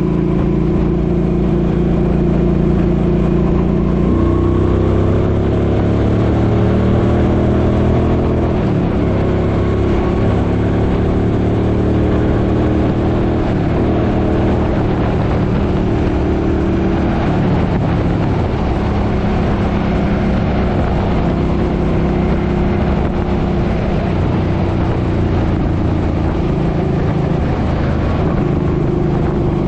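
Suzuki Boulevard M50's V-twin engine running on the road, its pitch shifting about four seconds in and then rising and falling with speed and gear changes, over rushing wind noise.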